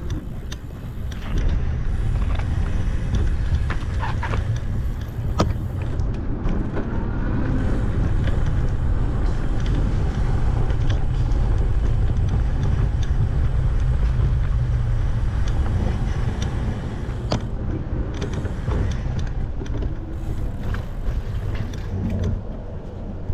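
Wind buffeting the microphone and tyre rumble from a bicycle riding along a paved trail, with a few sharp clicks and rattles.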